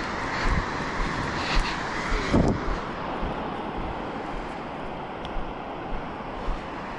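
Steady rushing noise of ocean surf with wind buffeting the microphone, louder for the first few seconds and then easing.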